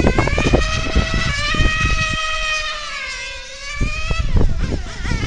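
Novarossi nitro engine of a 1/8-scale Mugen MRX6 on-road RC car running at high revs around the track, its high-pitched whine easing down and growing quieter to a low point about three and a half seconds in, then rising again. Irregular low thumps run underneath.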